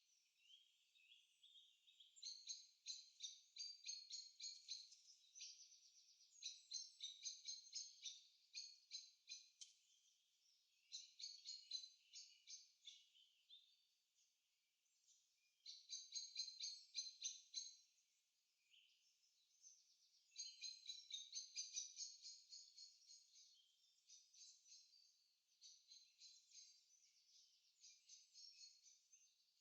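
Songbirds singing faintly: fast, high-pitched trilled phrases of two or three seconds each, repeating every few seconds.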